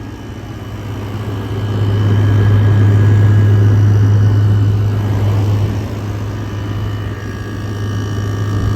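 Vissani window air conditioner running in cool mode: its GMCC compressor humming steadily under the rush of the fan, swelling louder for a few seconds in the middle.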